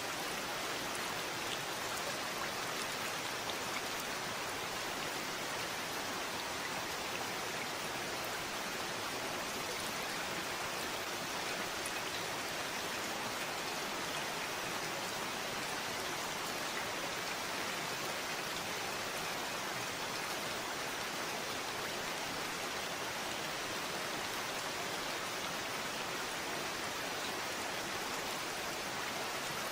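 Steady, constant rainfall, with fine drops pattering evenly on a surface.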